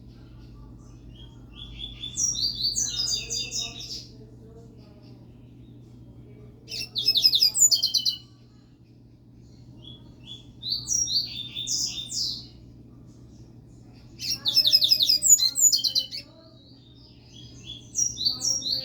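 A double-collared seedeater (coleiro) singing: four bursts of rapid, high, chirping song phrases a few seconds apart, with a fifth starting near the end, over a faint steady low hum.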